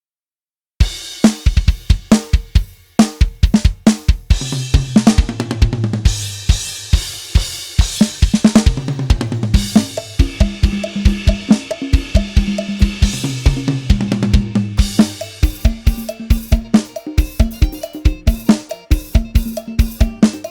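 A sampled drum kit with a live sound plays a steady groove on kick drum, snare, hi-hat and cymbals, starting about a second in. Sustained low notes run under it through the middle.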